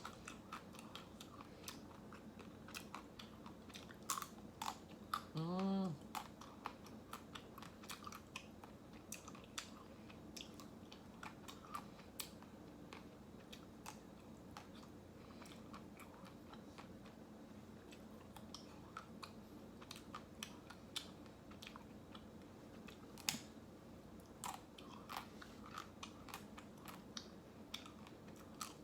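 Close-miked eating of ice cream: soft chewing and many small wet mouth clicks, with a few sharper crunchy bites, and a short hummed "mm" about six seconds in.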